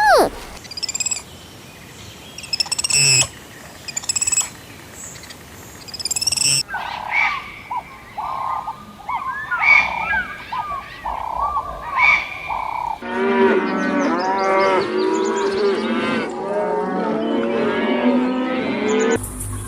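Animal calls in three cut-together segments: high thin chirps at first, then a run of short repeated calls, then many animals calling over one another in a dense chorus for the last six seconds.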